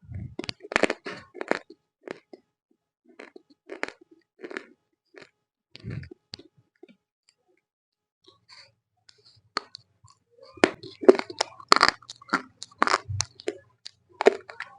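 Roasted Multani mitti (fuller's earth clay) being bitten and chewed close to the microphone: sharp, dry crunches in irregular clusters. The crunches thin out in the middle, stop for a second or so, then come thick and loud near the end.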